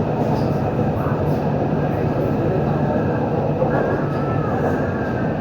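MTR Q-train metro carriage running between stations: a steady rumble of wheels on rail and running gear. Faint wavering high-pitched tones come in for about a second and a half, roughly three and a half seconds in.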